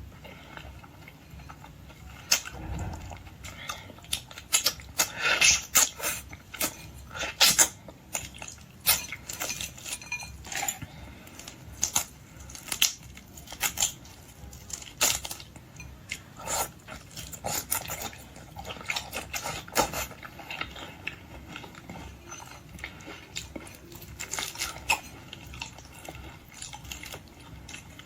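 Close-miked eating of boiled red shrimp: irregular sharp crackles of shells being cracked and peeled, with chewing and mouth sounds.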